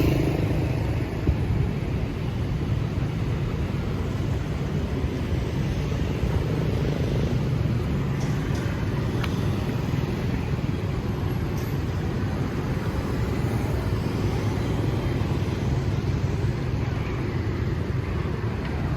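Steady road traffic on a city street, with vehicles passing.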